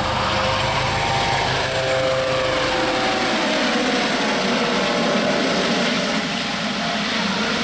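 Air ambulance helicopter flying close by: loud steady rotor and turbine noise with a high turbine whine. About three seconds in the low rotor rumble drops away and the whine dips a little in pitch as it moves off.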